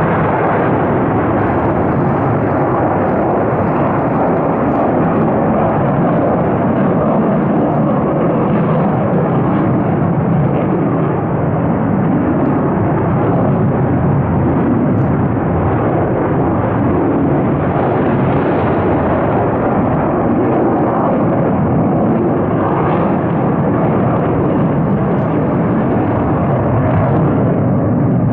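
US military fighter jet engines at takeoff power: loud, steady jet noise with no breaks.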